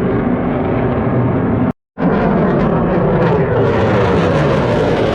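Aircraft flying past at an airshow, its engines droning steadily. The sound cuts out for an instant about two seconds in, and after that the pitch drifts slowly down.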